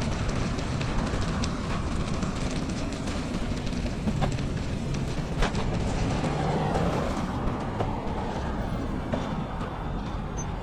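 Bicycle riding on a snowy trail: a steady rumble of wind buffeting the microphone and tyres rolling over snow, with scattered small clicks and ticks.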